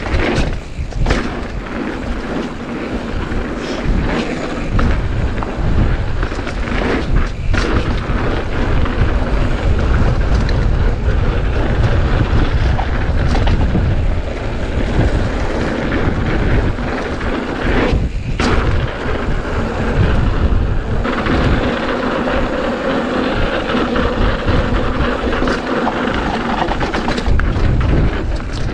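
Strong gusting wind buffeting an action camera's microphone: a heavy, uneven low rumble with a rushing hiss above it, easing briefly a few times.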